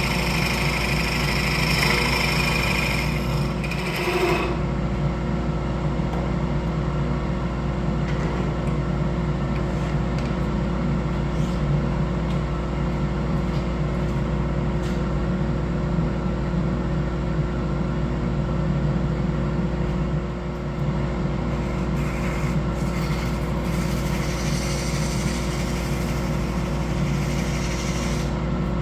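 Wood lathe running with a steady motor hum. A higher hiss over it stops about four seconds in.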